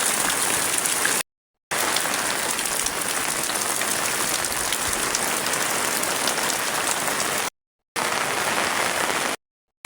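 Heavy rain falling, a steady dense hiss full of fine drop patter. It is broken three times by brief dead silences: just over a second in, and twice near the end.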